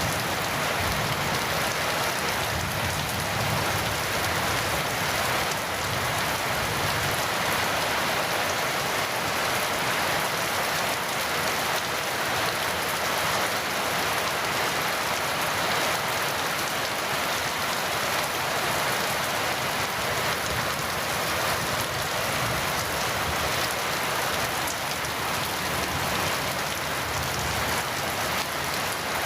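Heavy rain falling steadily: an even, unbroken hiss of drops with no thunder clap.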